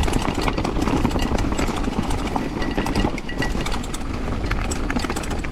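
Mountain bike riding fast down a rough dirt trail: steady wind rushing over the camera microphone, with tyres on dirt and a continuous clatter of chain and bike parts rattling over bumps.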